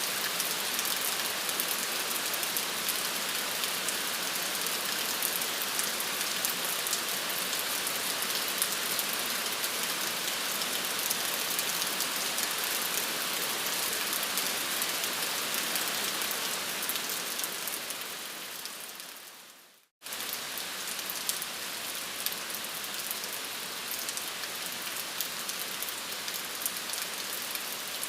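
Steady rain pattering, a dense hiss of drops. About two-thirds of the way through it fades away to a moment of silence, then cuts straight back in slightly quieter.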